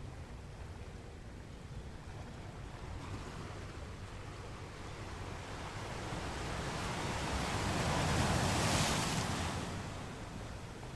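Sea waves: a wave builds over several seconds, breaks loudest about eight to nine seconds in, and falls away, over a low steady rumble of surf.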